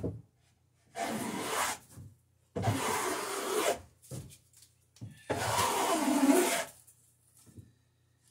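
Three long strokes of a hand tool shaving wood, each lasting about a second, smoothing the saw marks off the underside of a wooden boat rail.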